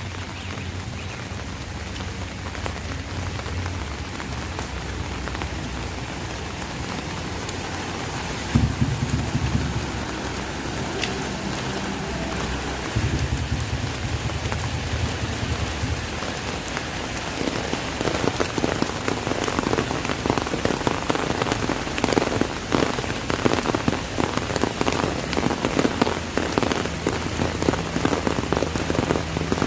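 Rain falling on an umbrella, a steady hiss of drops; a little past halfway the drops hit it more thickly and louder. A low rumble comes and goes twice near the middle.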